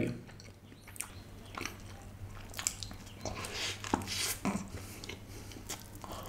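Close-miked biting and chewing of a paneer-patty burger: irregular sharp crunches and wet mouth clicks.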